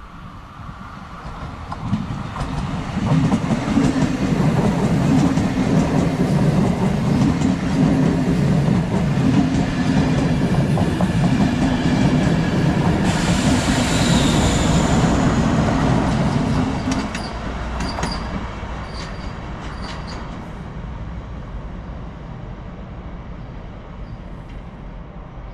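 A train passing close by: the rumble and wheel noise build up over the first few seconds, stay loud for over ten seconds, then fall away, with a few sharp clicks of wheels over rail joints as the last cars go by.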